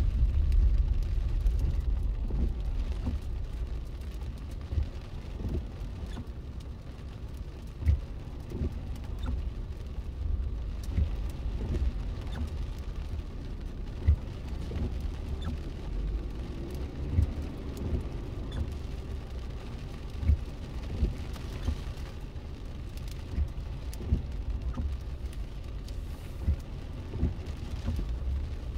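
Freezing rain falling, with scattered sharp ticks and drips at irregular intervals over a low, steady rumble.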